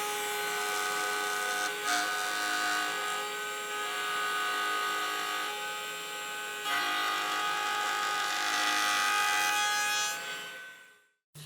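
Electric woodworking power tool motor running steadily with a high, even whine, fading in and out. The pitch and level shift slightly a couple of times as the tool works the wood.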